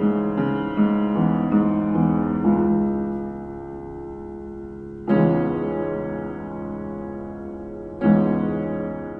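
Background piano music: a few soft notes, then two held chords about three seconds apart, each fading out.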